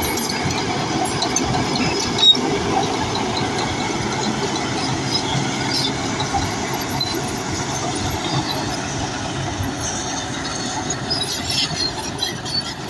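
Bulldozer working: its diesel engine runs steadily under load while the steel tracks give short high squeaks and clanks. There is one sharp knock about two seconds in.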